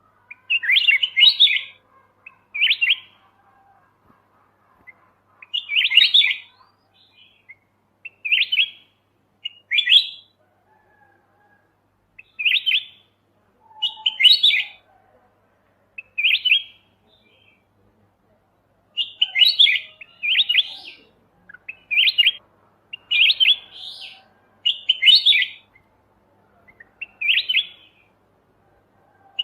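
Kutilang emas (white-eyed golden bulbul) singing short warbling phrases, one every second or two, with a brief pause about two-thirds of the way through, as a tutor song for training other songbirds.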